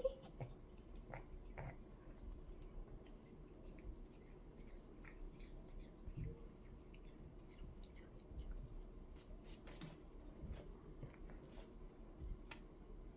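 Pets chewing foxtail grass: faint, irregular little crunching clicks.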